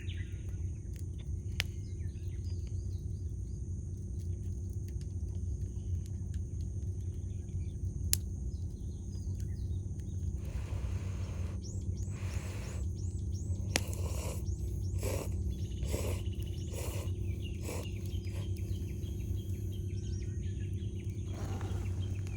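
Campfire burning with a steady low rumble and a few sharp crackling pops. From about halfway, a bird gives a run of roughly eight calls, about one a second.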